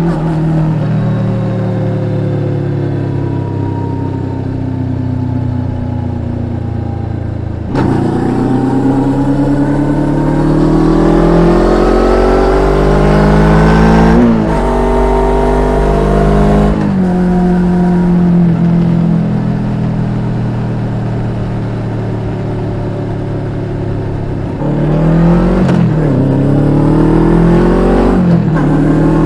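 Suzuki GSX250R parallel-twin engine, fitted with an aftermarket slip-on silencer, running under way. The revs sink at first. They then climb twice under acceleration, each climb cut short by a sudden drop as the rider shifts up. The engine holds a steady note, and near the end the revs go up and down quickly several times.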